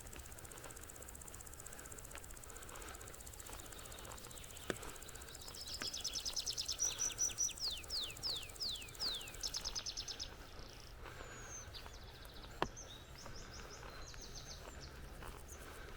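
A songbird sings a rapid, high-pitched trill lasting about five seconds, breaking midway into a few down-slurred notes, then gives a shorter trill a few seconds later. Under it runs a steady hiss of flowing creek water, with two sharp ticks.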